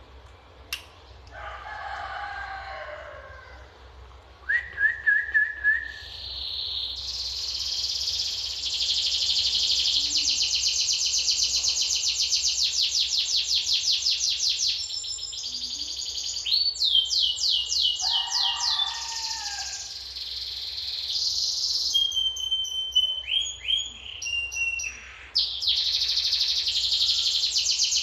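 Domestic canary in full, vigorous song: long runs of fast, high-pitched trills and rolls that change pattern every few seconds, with brief breaks. A rooster crows in the background about two seconds in and again midway.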